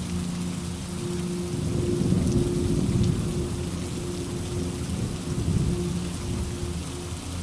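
Steady heavy rain, with low thunder rumbling that swells about two seconds in and again near five seconds.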